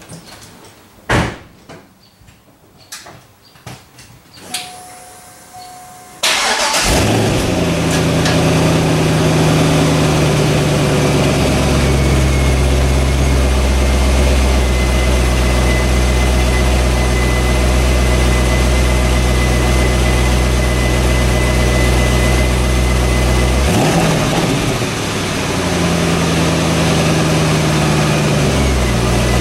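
A car's V8 engine, fitted with a stock C5 Corvette Z06 exhaust, is started with a short crank after a few clicks, then settles into a steady idle. The idle dips briefly about two-thirds of the way through and then picks back up. The owner calls it pretty quiet on this exhaust, and says it needs an exhaust and a cam.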